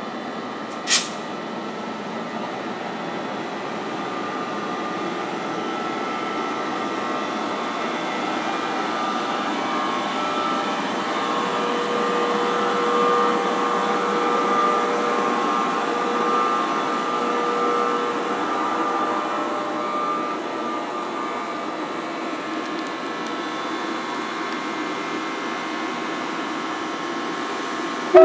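A New Jersey Transit multilevel train passing at close range, pushed by a Bombardier ALP-46A electric locomotive: a steady rumble of wheels on rail with a steady whine from the locomotive, loudest as the locomotive goes by midway. A single sharp click about a second in.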